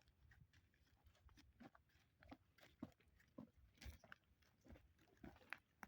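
Near silence, with faint, irregular small clicks and crunches.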